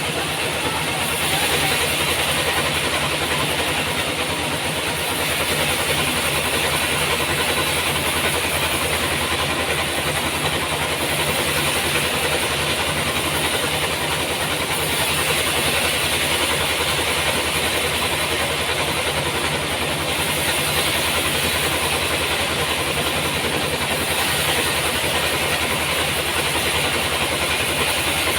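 Sawmill machinery running steadily: a low, even hum with a strong hiss above it, swelling slightly in loudness now and then.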